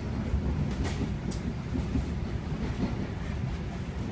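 Ride noise inside a moving NJ Transit passenger coach: a steady low rumble of wheels running on the rails, with a couple of faint clicks about a second in.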